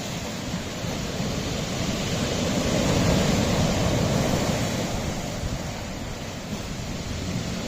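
Sea waves washing against a rocky shore, one swell building to a peak about three seconds in and then easing, with some wind on the microphone.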